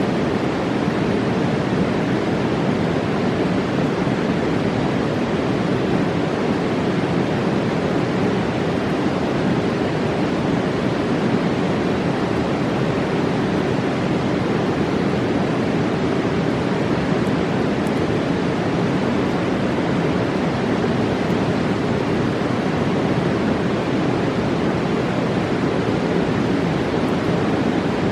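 Fast mountain river rushing: a steady, unbroken roar of whitewater.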